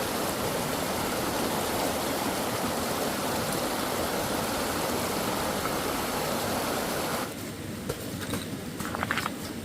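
Steady rushing noise like running water, cutting off abruptly about seven seconds in, followed by a few light knocks.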